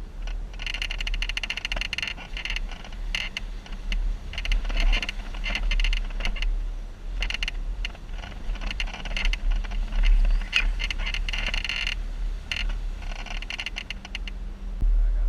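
Jeep crawling over a rough off-road trail: a steady low rumble under irregular bouts of rattling and clattering as the vehicle jolts over rocks and ruts.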